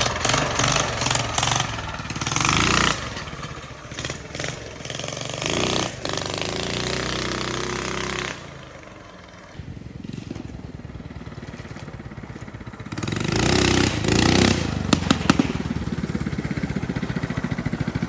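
Minibike's small engine, fitted with a muffler, running as it is ridden: it revs up and eases off, louder about two to three seconds in and again around thirteen to fifteen seconds, and lower in between.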